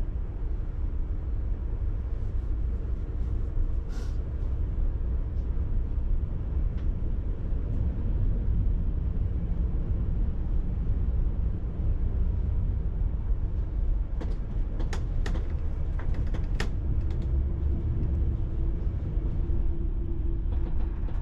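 Passenger train running on the track, heard from inside the carriage: a steady low rumble with a few sharp clicks and ticks, most of them bunched about two-thirds of the way through.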